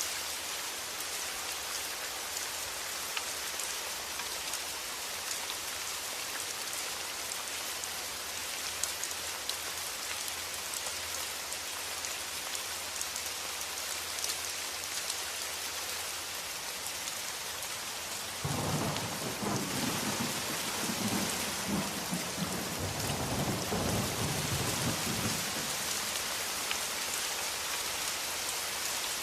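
Steady rain falling, with a roll of thunder that breaks in suddenly about two-thirds of the way through and rumbles on for several seconds before fading back under the rain.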